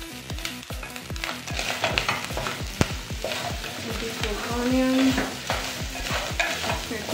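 Beef and onions sizzling as they fry in an aluminium pot, with a wooden spoon stirring and scraping against the pot in quick irregular strokes.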